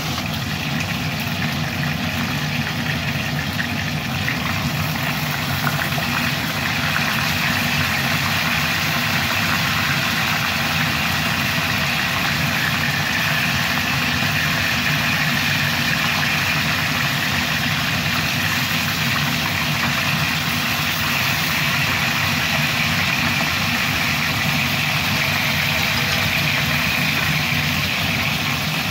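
Chicken wings sizzling steadily in hot oil in a wok, over a steady low hum.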